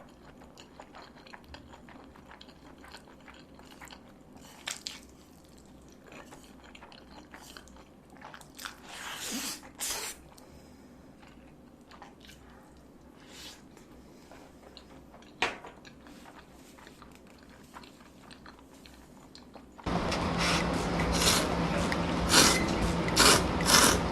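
Close-miked eating sounds: a person biting and chewing food, with scattered wet clicks and occasional crunches. About 20 s in, a much louder, dense sound cuts in suddenly.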